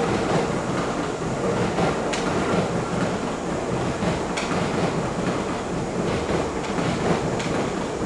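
MTR SP-1900 electric multiple unit rolling past: steady wheel-on-rail noise, with a few sharp clacks as its wheels cross rail joints.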